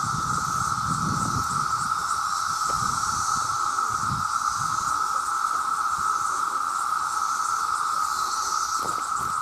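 A chorus of cicadas: a steady, unbroken drone with no pauses, and faster pulsing calls higher up. Low rumbles come and go underneath.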